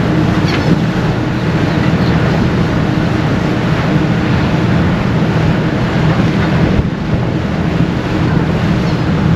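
Wind buffeting the microphone on the open deck of a moving ferry, over the steady low hum of the ferry's engines.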